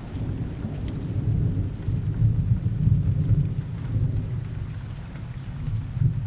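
Rolling thunder rumbling low over steady rain, swelling to its loudest in the middle and dying away at the end.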